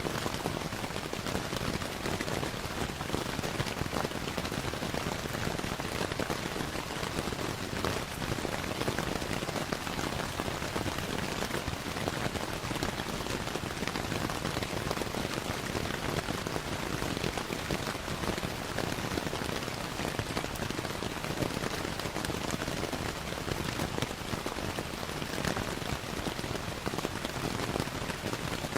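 Steady rain falling on a surface, an even continuous patter, with scattered small crackles of a wood fire mixed in.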